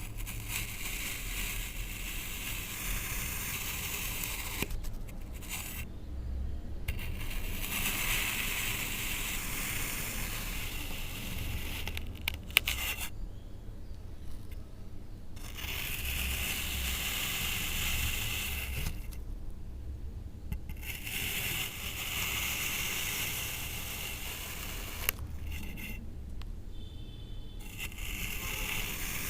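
Sand being cut and scraped through, a steady gritty scraping that breaks off four times for a second or two.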